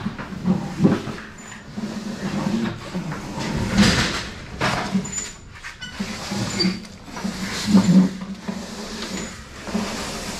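Irregular knocks, bumps and rattles of objects being handled and moved about, with a louder thump about four seconds in and another near eight seconds.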